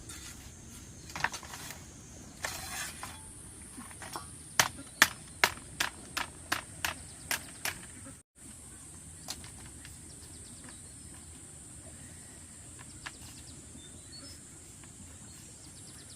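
A run of about a dozen sharp knocks, roughly three a second, about four seconds in, over a steady high insect drone.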